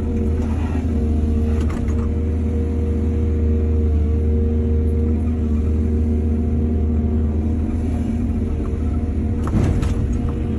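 Heavy diesel engine of earth-moving machinery running steadily, with two brief clanks, one about two seconds in and one near the end.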